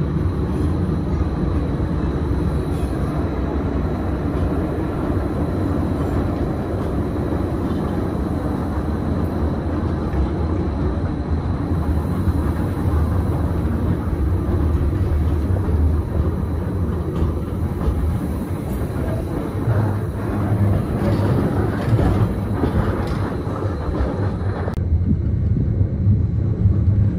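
Steady low rumble of a Gornergrat Railway electric rack train running, heard from inside the carriage. About three seconds before the end, the higher hiss drops away abruptly and only the low rumble remains.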